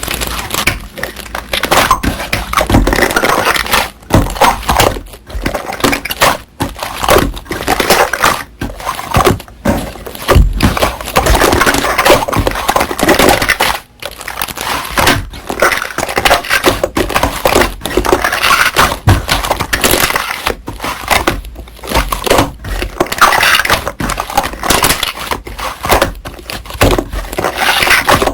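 Slime being squeezed, poked and stretched by hand, making a continuous run of wet crackling and popping with brief pauses between handfuls.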